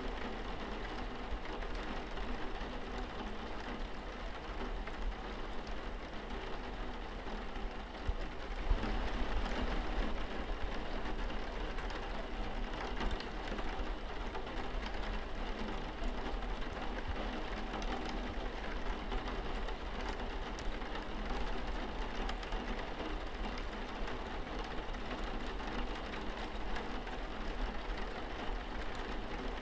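Steady rain falling on a window pane, with a low, steady rumble underneath. The rain gets a little louder about nine seconds in.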